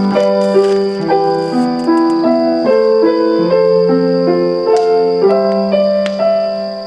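Background music: piano playing a gentle melody of sustained notes, the notes changing about every half second.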